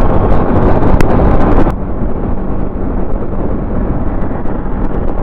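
Wind buffeting the microphone of a moving vehicle, over a low road and engine rumble. The noise loses its hiss and drops a little about a second and a half in.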